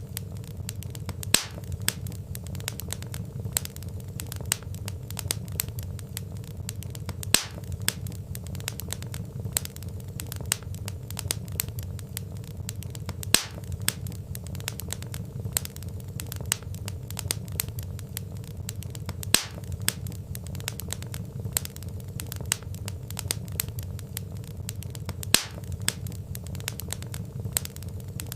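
Wood fire crackling in a fireplace: a steady low rumble of burning logs under a constant patter of small crackles, with a sharper, louder pop about every six seconds.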